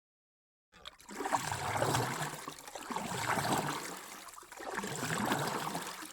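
Moving water, swelling and easing three times about every second and a half.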